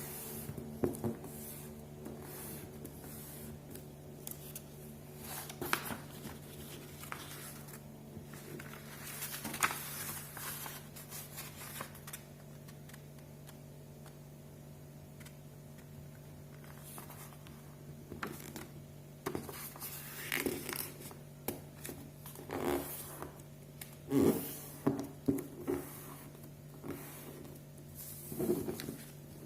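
Sheet of paper being folded and creased by hand into a paper airplane: scattered rustles and sharp scraping strokes along the folds, busier in the second half, over a steady low hum.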